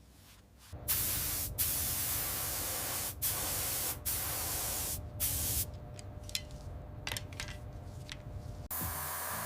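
Pressurised spray hissing, starting about a second in and cut off briefly several times, as a nozzle's trigger is released and pressed again.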